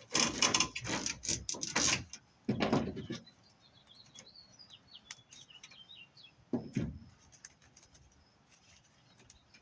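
Handling and stripping of metal-armoured BX cable: loud scraping, rattling bursts, a long one at the start, another about two and a half seconds in and a short one near seven seconds. Small birds chirp in the background throughout.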